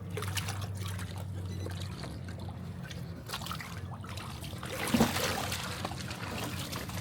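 Water trickling and pouring, with a brief louder rush of water about five seconds in.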